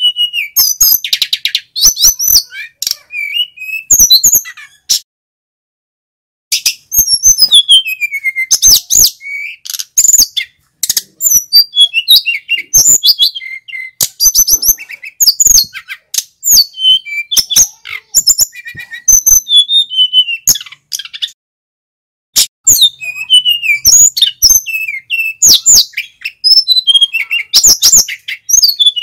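Male sikatan gunung (mountain flycatcher) singing in full voice: rapid phrases of high, sweet whistles and quick twittering notes, broken by short pauses and two longer silences, about 5 s and 21 s in.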